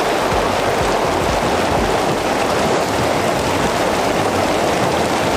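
Heavy wind-driven rain mixed with small hail, a loud steady downpour hiss with no breaks.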